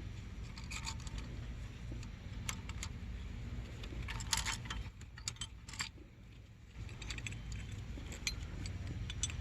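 Small metal engine parts clinking, clicking and scraping as they are handled, with a denser rattle about four seconds in. A steady low hum runs underneath.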